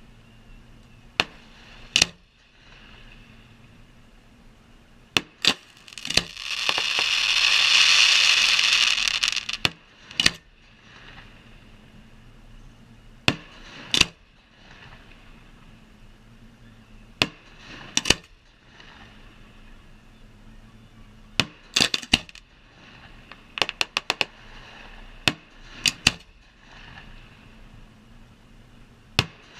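Fireworks going off: sharp single bangs every second to few seconds, with a quick string of bangs about two thirds of the way through. About six seconds in, a loud hissing rush lasts about three seconds.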